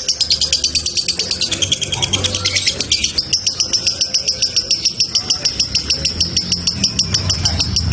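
Male lovebird in a long 'ngekek' chatter: an unbroken, rapid string of shrill chirps, about eight a second. The chirps dip lower in pitch for a while and step back up about three seconds in.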